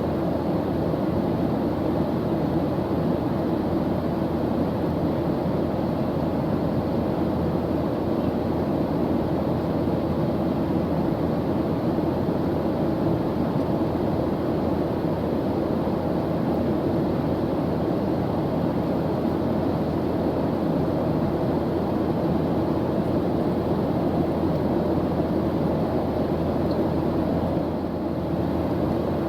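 Airplane engine drone: a steady, unchanging low noise with no breaks.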